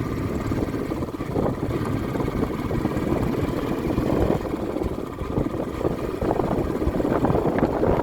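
A vehicle driving, with a steady, fluttering engine and road rumble.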